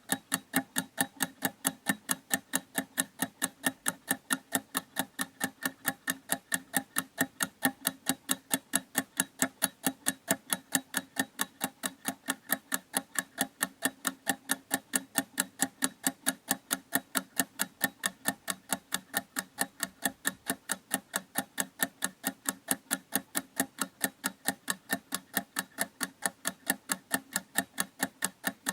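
Clock ticking, fast and even at several ticks a second, with no change in pace.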